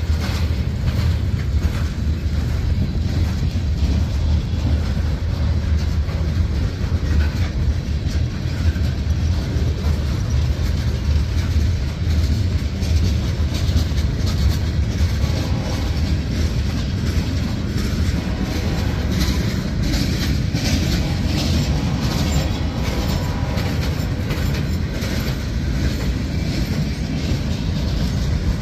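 Freight train cars rolling steadily past: covered hoppers, tank cars and empty log flatcars. A continuous low rumble of steel wheels on rail runs throughout, with clicks and rattles as the wheels cross rail joints, most frequent about two-thirds of the way through.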